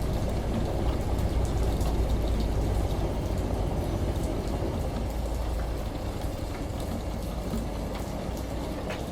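Washing machine rumbling low, layered with rain patter and scattered drips; the rumble fades over the second half, leaving mostly rain.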